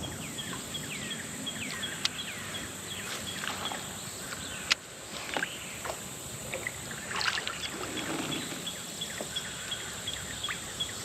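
Outdoor insect and bird ambience: a steady high insect drone with a regular faint chirp repeating a couple of times a second and scattered short falling chirps. A sharp click about 2 s in and a louder one about 5 s in.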